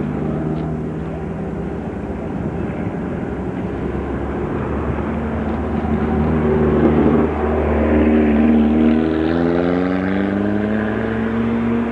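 Race car engine accelerating up the hillclimb course, its pitch climbing, dropping once about seven seconds in at a gear change, then climbing again; it is loudest around the middle of the run.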